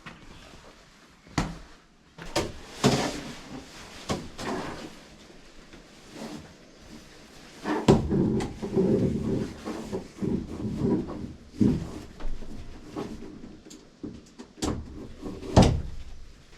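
Irregular knocks, clicks and rustling of gear being handled, busiest from about eight to twelve seconds in.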